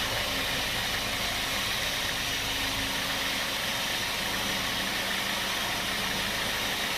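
Sawmill saw machinery running steadily, a constant hum with a faint low drone and hiss, with no change in load.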